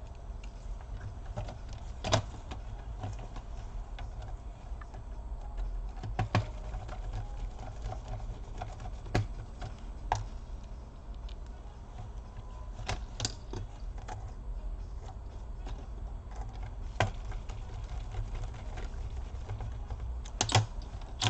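Sparse, irregular plastic clicks and taps from a laptop keyboard being pressed down and snapped into place in a Dell Inspiron 1525's case, over a low steady hum.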